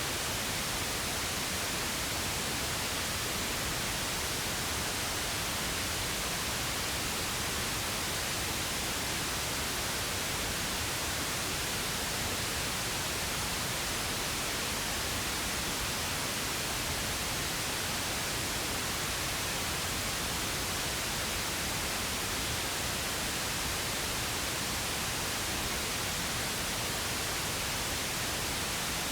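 Steady synthetic pink noise: an even, unbroken hiss spread across the whole range.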